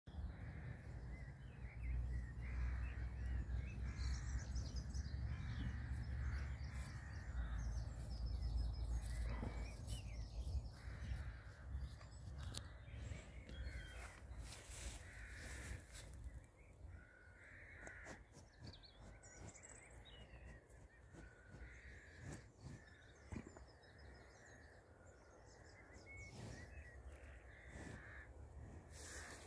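Birds calling, with caw-like calls repeating through the clip. A low rumble runs under the first several seconds, and scattered clicks and knocks sound throughout.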